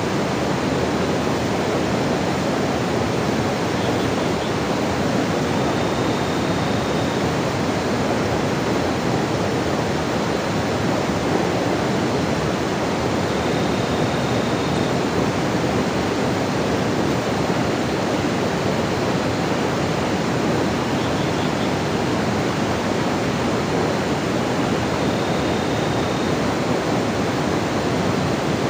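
Steady rushing of water, loud and unbroken throughout. A faint, short, high note sounds three times over it, several seconds apart.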